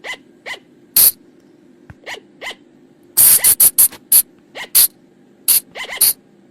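Sunda flying lemur (colugo) calling: an irregular series of short, sharp calls, bunched closely together a little after three seconds in, over a steady low hum.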